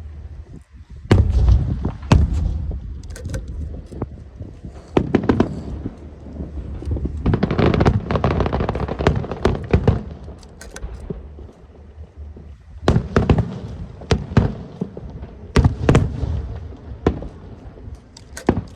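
Aerial fireworks shells bursting overhead: a string of sharp bangs at irregular intervals, some with a rumbling echo, and a dense crackling stretch in the middle.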